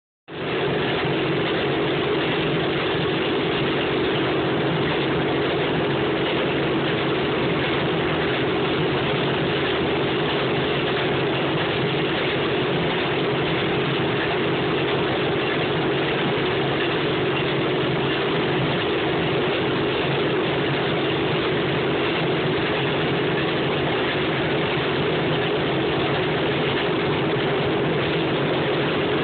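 An engine running steadily at an even speed, with a constant droning note and no change in pitch or level.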